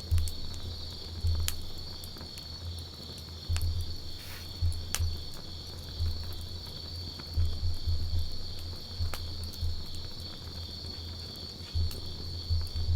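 Wood campfire burning with scattered sharp crackles and pops and an uneven low rumble, over the steady high trilling of insects.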